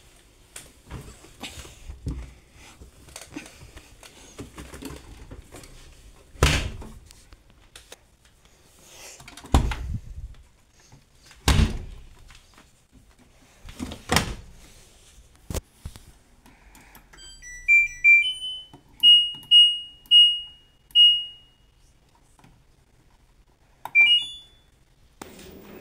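A washing machine's control panel beeping as its buttons are pressed: a string of short electronic beeps at two pitches, then a quick rising chime near the end. Before the beeps come several sharp knocks and thuds of the machine being handled.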